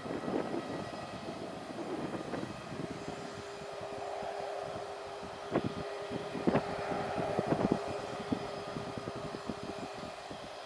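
Aircraft engine noise: a steady hum holding one tone, with a few sharp knocks in the middle.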